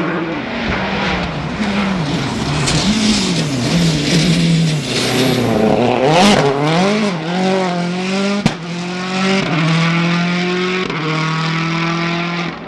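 Rally car engine revving hard, its pitch swinging up and down again and again with throttle and gear changes. A single sharp crack comes about eight and a half seconds in, then the engine holds a steadier high note.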